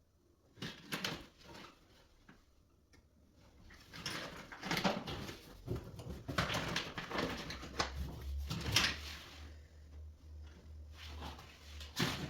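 Knocks, clicks and scraping rattles of hard objects being handled, busiest in the middle, with a low pulsing hum that starts about eight seconds in and keeps going.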